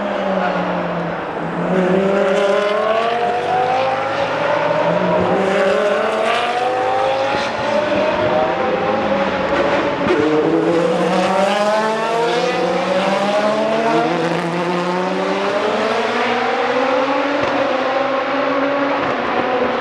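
Several GT race car engines accelerating hard, their pitch rising again and again through the gears with overlapping tones from more than one car, and a sharp drop about ten seconds in at a gear change or lift.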